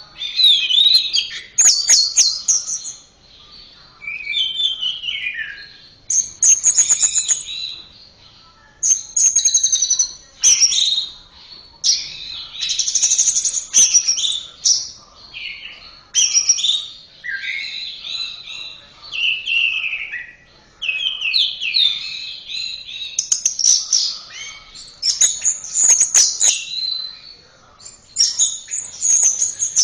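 Orange-headed thrush (anis merah) singing: a long run of varied, fast phrases of clear whistles, rising and falling slurs and rapid chattering trills, each phrase about a second or two long with short pauses between.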